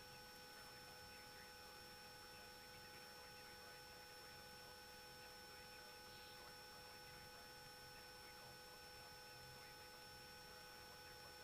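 Near silence: a faint steady electrical hum with a few thin constant tones, and no engine or voice heard.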